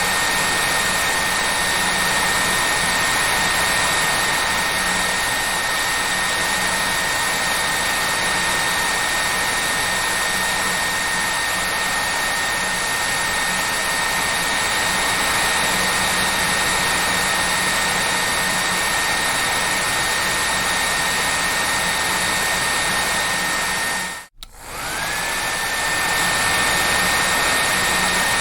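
Hair dryer running steadily: a loud rush of air with a high motor whine. About 24 seconds in the sound cuts out for a moment, then the whine climbs back up to its steady pitch.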